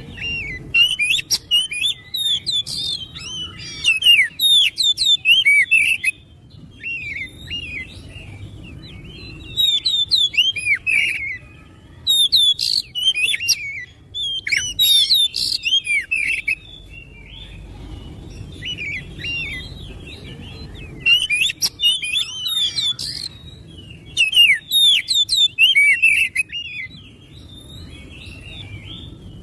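Oriental magpie-robin (kacer) singing: phrases of a few seconds of rapid, varied whistles and chirps, broken by short pauses.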